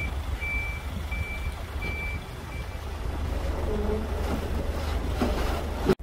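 A vehicle's reversing alarm beeping, one high tone repeated about every 0.7 seconds, stopping about three seconds in, over a steady low engine rumble.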